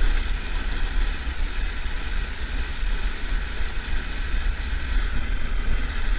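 Triumph Tiger 1200 motorcycle on the move, with wind rushing over the camera microphone as a steady hiss and a constant, gusting low rumble, the engine running beneath it.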